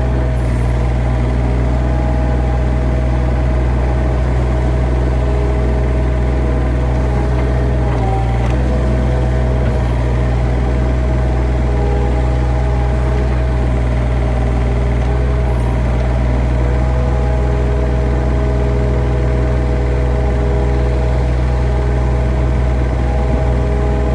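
An engine idling steadily, a deep even drone with a few steady tones above it and no change in speed.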